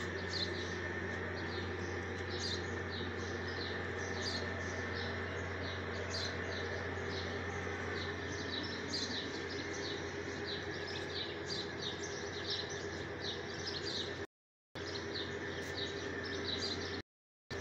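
Small birds chirping busily, many short high chirps one after another, over a steady low hum. The sound cuts out briefly twice near the end.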